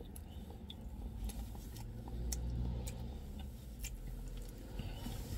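Chewing and crunching on a crisp piece of food, with a handful of sharp, separate crunches, over a low steady rumble inside a car's cabin.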